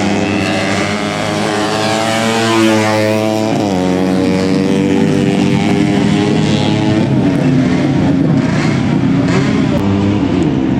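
130 cc four-stroke underbone race motorcycles running hard on track; one passes with its engine note dropping in pitch about three seconds in, then the sound turns rougher and busier.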